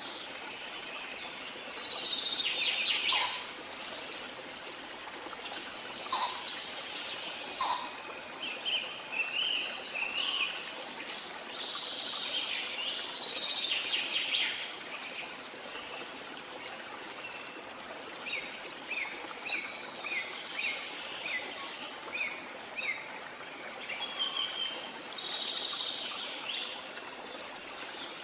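Wild birds calling and singing, with bursts of high trills and a row of short, quick chirps a little past the middle, over a steady background rush.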